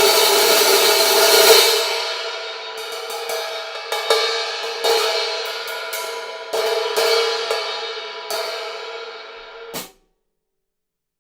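A 15-inch Mehteran Rain hi-hat ringing with a loud sustained wash, then struck singly about nine times, each stroke left to ring and fade. The ring cuts off abruptly just before the end.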